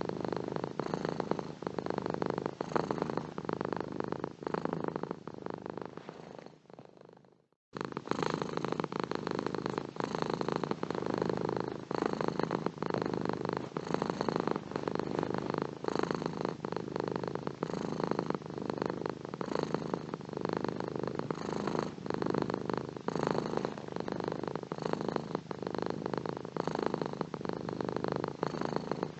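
Domestic cat purring close up, a steady fast rattling purr. About six seconds in it fades away to a moment of silence, then starts again at full level.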